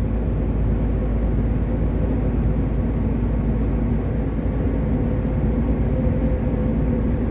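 Steady drone of a long-haul truck's diesel engine and road noise heard inside the cab while cruising, with a faint thin high whine above it.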